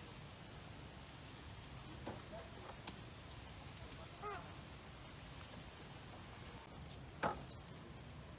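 Faint outdoor ambience with a low steady rumble. A few light clicks, a short chirp-like call about four seconds in, and one sharp knock near the end.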